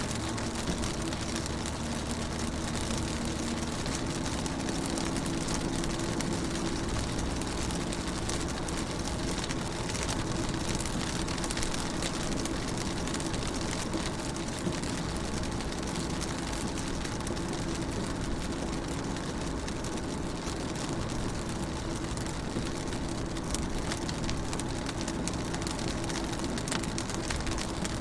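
Rain falling on a car, drops tapping on the window and body in a dense, steady patter, with a steady low hum underneath.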